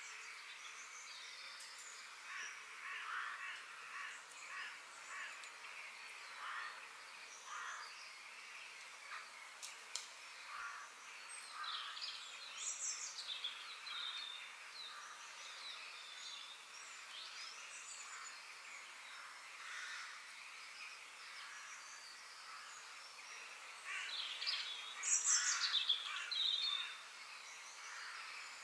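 Several songbirds chirping and singing in short overlapping phrases over a faint steady background, with a louder flurry of calls near the end.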